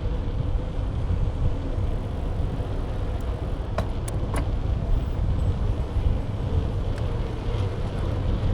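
Wind buffeting the action camera's microphone and road rumble from the moving bike, steady throughout, with a few sharp light clicks about four seconds in.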